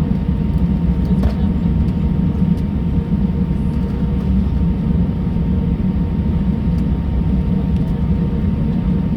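Airbus A320 cabin noise while the airliner taxis: a steady low rumble from the engines and air conditioning, with a faint steady hum above it and the odd small tick.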